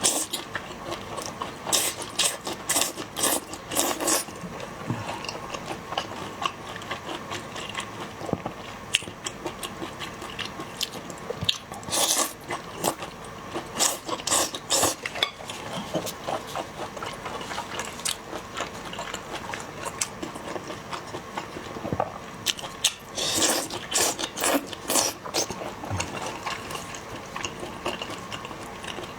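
A person eating seafood close to the microphone: clusters of sharp crunching bites, with chewing in between.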